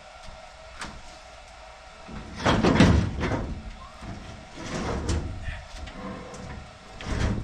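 Heavy steel clunks and scraping as a large engine hoist is shifted around in a pickup truck bed, the loudest bout about two and a half seconds in, then more knocks around five seconds in and again near the end.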